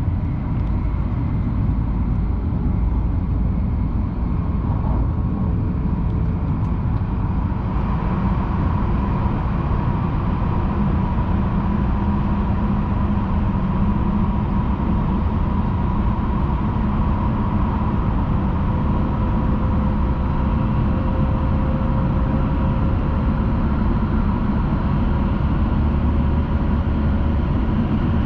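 Hayabusa Shinkansen train running, heard from inside the passenger car: a steady low rumble with faint steady tones over it.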